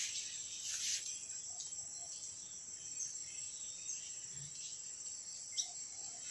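Steady high-pitched trill of insects, with a few short high chirps of swiftlets about a second in and again near the end.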